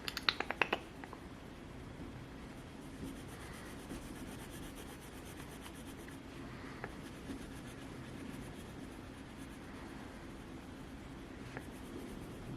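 A drawing tool scratching on paper in a quick run of short strokes during the first second, then only faint scratching over a low steady room hum.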